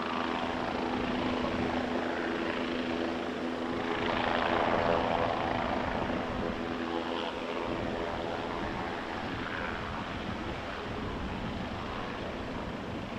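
MQ-8C Fire Scout unmanned helicopter in flight: its rotor and turbine give a steady whine. The sound grows louder about four to five seconds in, then slowly fades.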